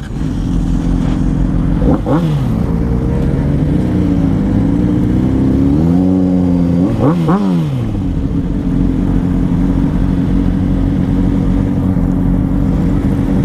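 Motorcycle engine idling steadily, revved briefly about two seconds in and again, for longer, around six to seven seconds in.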